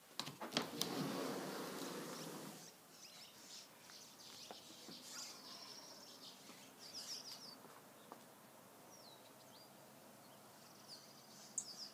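Small birds chirping outdoors: short high calls and quick whistled notes scattered through, some in little clusters. At the start, a few clicks and a couple of seconds of rustling noise.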